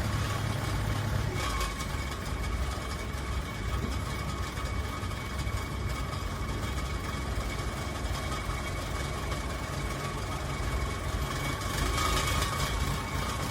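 Heavy machine's diesel engine running steadily at low revs, a constant low rumble with a faint steady whine above it.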